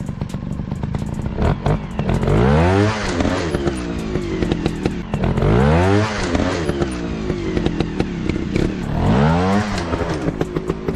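Single-cylinder dirt bike engine revved up and eased off three times, with a steady run between revs and frequent sharp clicks and clatter.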